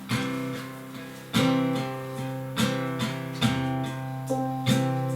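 Acoustic guitar strumming chords in a steady rhythm, the introduction to a worship song.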